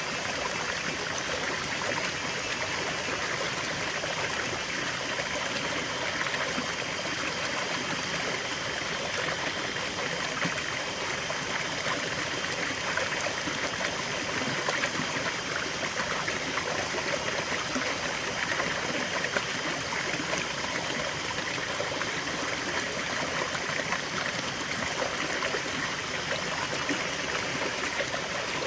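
Small stream of water flowing and trickling, a steady bubbling wash.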